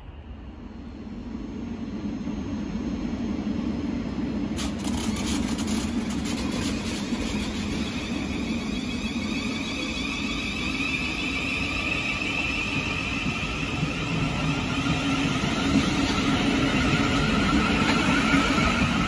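Thameslink Class 700 electric multiple unit running along the platform, a low rumble of wheels on rail with a rising electric whine from the traction equipment, growing steadily louder as it comes close.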